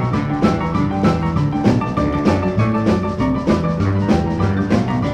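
Rock and roll band playing an instrumental break with no vocals, drums keeping a steady beat under held instrument notes.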